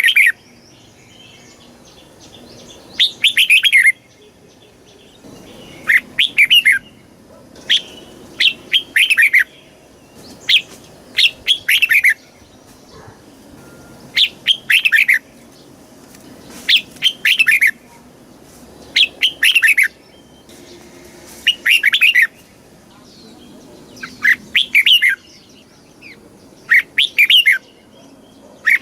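Red-whiskered bulbul singing: short, quick phrases of several sweeping notes, repeated every two to three seconds.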